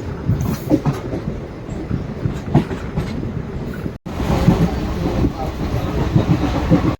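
DEMU passenger train running, heard from inside the coach: a steady rumble with the wheels clattering over rail joints. The sound cuts out for an instant about four seconds in.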